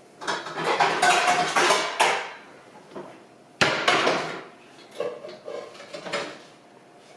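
Metal cookware clattering as a skillet is handled among other pots and pans, with one sharp clank about three and a half seconds in and a few lighter knocks after it.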